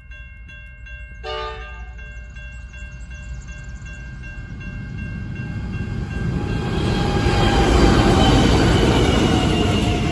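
Level crossing bell ringing rapidly, then a short horn blast from Pacific National NR-class diesel-electric locomotives about a second in. The locomotives' engine and wheel rumble swells as they pass, loudest near the end, and runs on into the passenger carriages rolling by on the rails.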